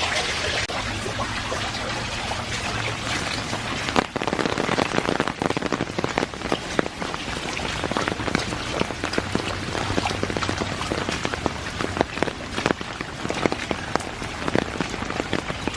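Heavy rain falling, with many sharp drop impacts close by that grow denser from about four seconds in.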